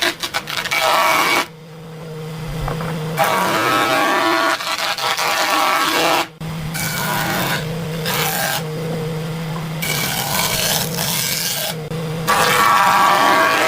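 A small engine running steadily at high speed, with a rushing hiss over it, in several short stretches that start and stop abruptly.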